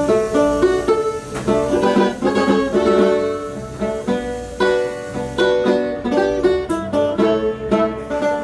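Live acoustic band playing an instrumental passage on picked strings, a quick run of plucked notes in a lively rhythm right after a count-in.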